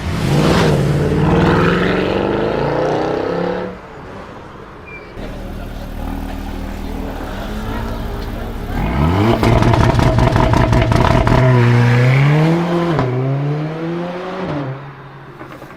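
Mercedes car with a very loud exhaust being revved hard twice: the engine note climbs sharply at the start and falls back after a few seconds. About nine seconds in it climbs again, with rapid crackling, then the pitch wavers up and down before dropping away near the end.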